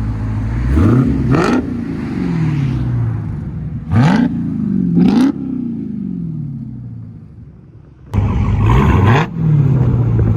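2022 Dodge Charger SRT Hellcat's supercharged 6.2L HEMI V8 on straight pipes, with the mid-muffler and exhaust valves deleted, blipped from idle. Two quick revs come about a second in and two more around four and five seconds, each winding back down to idle. Near the end the idle cuts in suddenly louder.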